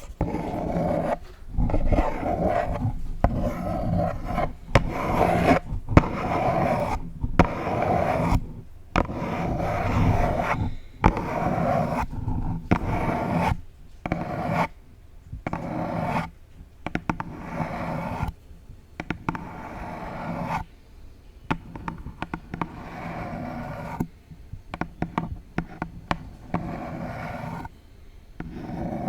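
Long false nails scratching a pink box in repeated strokes, each about a second long with short pauses between, and a few sharp taps mixed in.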